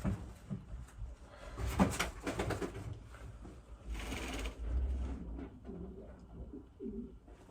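Domestic racing pigeons cooing, with low rising-and-falling coos near the end. A couple of short bursts of rustling noise come earlier.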